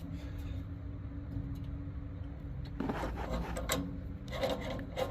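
Wrench tightening a refrigerant line fitting: metal scraping and clicking in two short spells, about three seconds in and again near the end, over a steady low hum.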